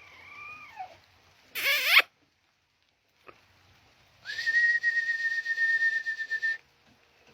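Roosters calling: a short, loud, harsh cry just before two seconds in, then one long held high note lasting about two seconds.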